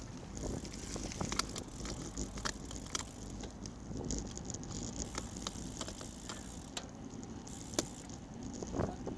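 Road bicycle riding along: a steady rumble of wind and road noise on a bike-mounted action camera, with irregular sharp clicks and rattles, the loudest near the end.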